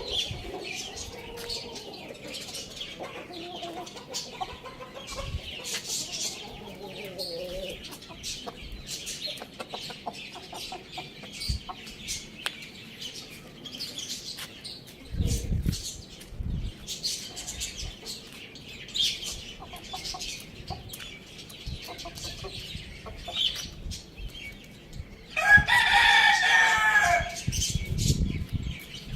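Chickens clucking, with high chirping scattered throughout. Near the end a rooster crows once, about two seconds long, the loudest sound.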